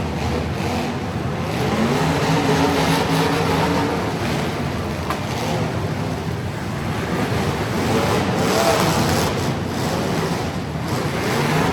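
Truck engine running under load and revving, its pitch rising about two seconds in and again near eight seconds in, over a steady rushing noise.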